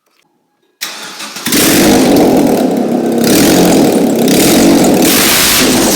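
A Mazda engine with its exhaust system removed. About a second in it cranks briefly and catches, then runs really loud, straight out of the open exhaust manifold.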